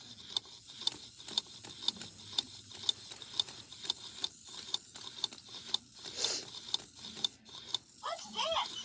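Animatronic robot toy bird's motor and gear mechanism clicking steadily, about three clicks a second, as it moves. A short squeaky warble comes near the end.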